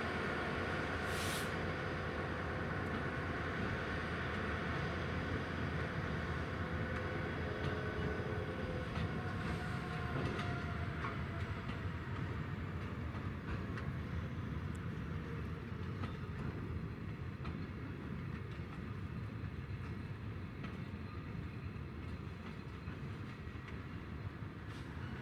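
A train running past on the rails: a steady rumble of wheels with some rail clatter, with a few pitched tones in it that fade out about ten seconds in.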